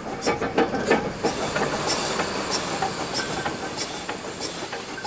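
Achensee Railway steam cog locomotive and its coaches moving slowly, with a steady hiss of steam and a regular click repeating a little under twice a second.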